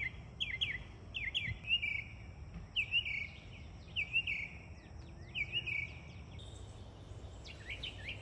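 A songbird chirping: quick falling chirps, often in pairs, repeated every half second or so, thinning out with a gap near the end, over a low steady background rumble.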